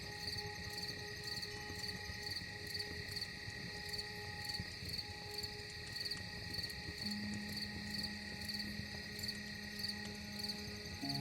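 Crickets chirping in an even pulse of about two chirps a second over soft, steady ambient music drones; a low held note enters about seven seconds in.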